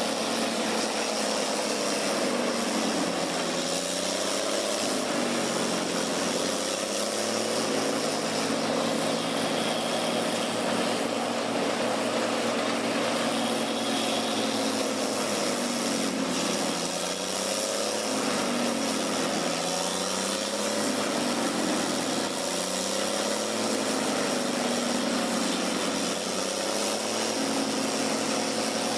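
Heavy logging machine's engine running continuously, its pitch dipping and rising every few seconds.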